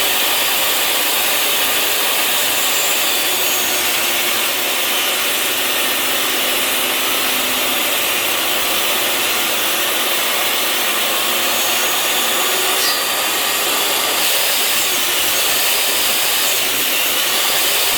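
Table saw running steadily as its blade cuts around a glued-up wooden box to separate the lid, the blade set just under the 3/4-inch thickness of the wood.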